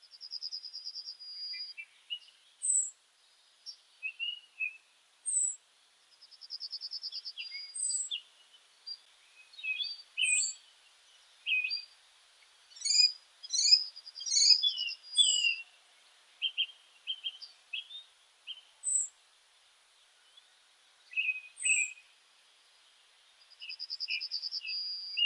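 Several songbirds calling together: a short, high call repeated every two to three seconds, a rapid trill of about a second and a half heard four times, and many scattered chirps.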